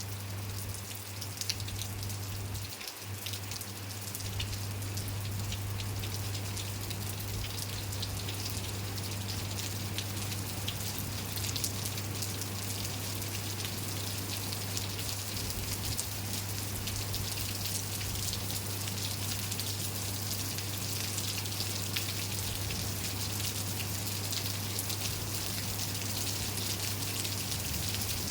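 Steady rain falling, with many individual drops tapping on surfaces, over a constant low hum.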